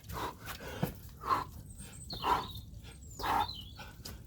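A man breathing hard after burpees and kettlebell jump squats: loud, breathy exhalations about once a second.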